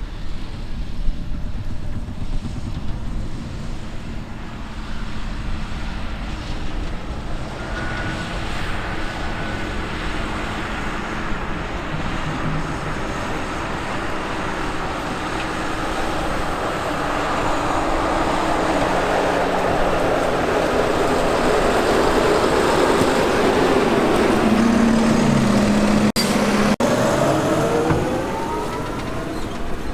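Heavy diesel farm machinery running with a steady low rumble, growing louder through the second half. Near the end its pitch falls and then rises again.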